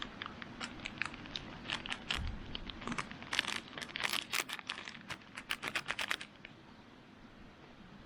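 Plastic packet of pancake mix being handled and torn open, with a run of crinkling and crackling that stops about six seconds in.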